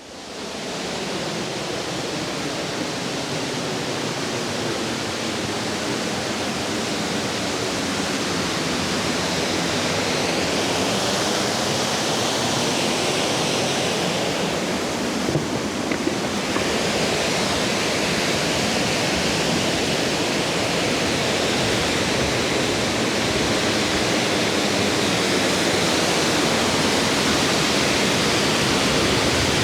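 Plodda Falls, a 46 m waterfall, pouring into its gorge: a steady, full rush of falling water that grows gradually louder.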